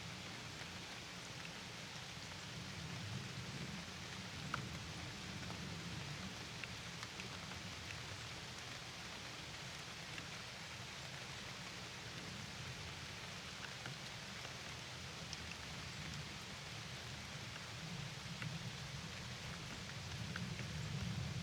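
Steady rain falling, an even hiss with a low rumble underneath and a few scattered sharp drop ticks; it swells slightly near the end.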